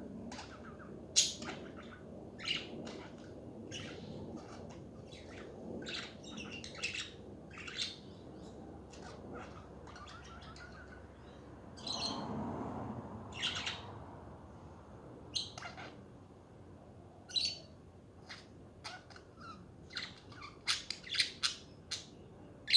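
Budgerigars chattering: a quick, irregular string of short, sharp chirps and squawks with no pauses, over a steady low background noise.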